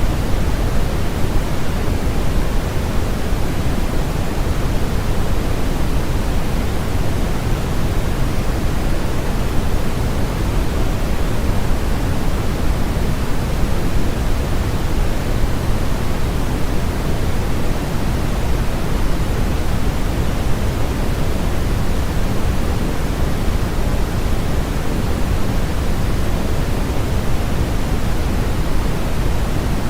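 Continuous synthetic sleep-aid noise, an even hiss-and-rumble with most of its weight in the low end and less toward the top. It holds perfectly steady, with no changes or events.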